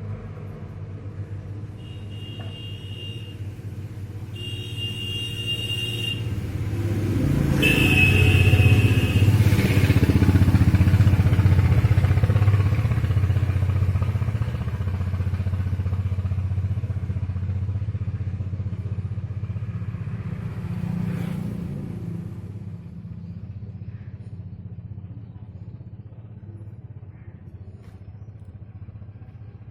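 A motor vehicle engine running, growing louder to a peak about eight to twelve seconds in, then slowly fading. Three short high-pitched tones sound in the first nine seconds, the last one the loudest.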